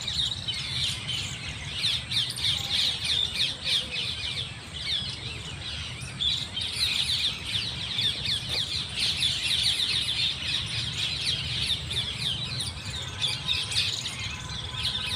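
Many small birds chirping together in a dense, continuous chorus of quick overlapping high chirps, over a steady low rumble.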